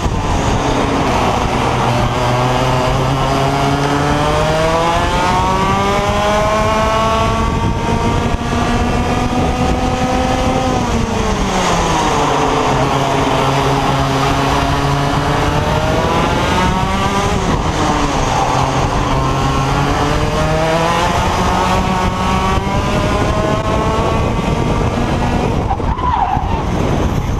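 125cc IAME X30 two-stroke kart engine at racing speed, its pitch climbing steadily for about ten seconds, dropping sharply, then rising and falling again twice more as the kart brakes and accelerates around the circuit.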